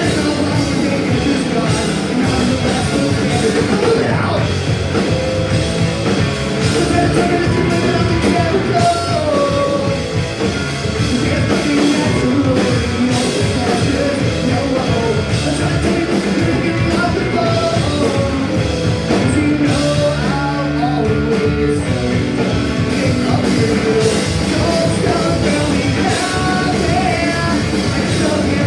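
Punk rock band playing live at full volume: fast distorted electric guitars, bass and drum kit, with shouted singing over the top.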